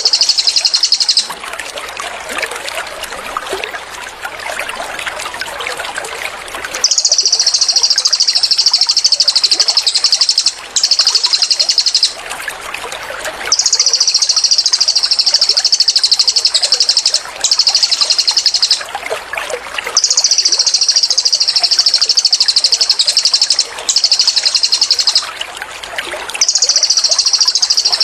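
Cililin songbird delivering rapid, high-pitched 'tembakan' trills in long bursts of one to four seconds, separated by short pauses. Trickling water and softer chirps fill the pauses.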